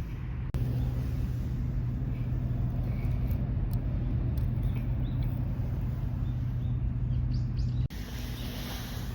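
Steady low engine hum, which cuts in abruptly about half a second in and drops away suddenly near the end, with a few faint bird chirps.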